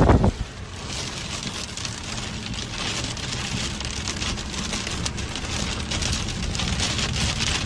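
Steady rain falling: a dense hiss with many individual drops ticking.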